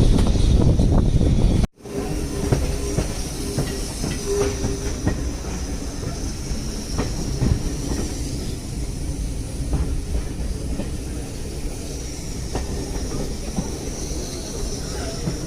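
Steady low rumble of a heritage railway carriage running along the track, heard from inside, with faint scattered clickety-clack of the wheels. Near the start, a brief louder rushing noise cuts off abruptly.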